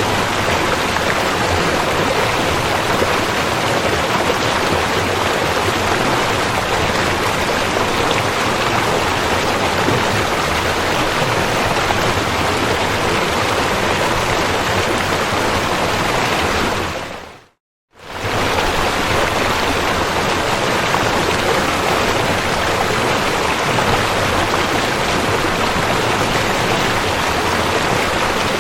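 River water flowing in a steady, even rush. About seventeen seconds in it fades quickly to silence for a moment, then comes straight back as before.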